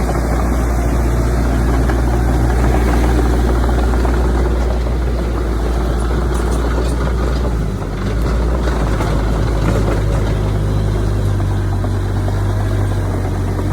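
Heavy earthmoving machinery's diesel engine running steadily with a deep drone, easing briefly about eight seconds in before carrying on.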